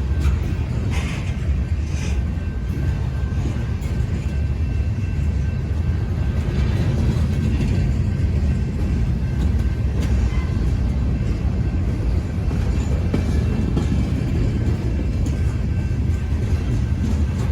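Freight train cars rolling past at slow speed: a steady, heavy low rumble of wheels on rail, with faint steady high-pitched tones over it.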